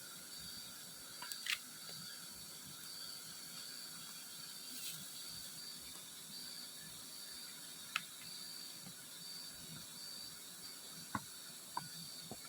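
A steady hiss with a few sharp clicks.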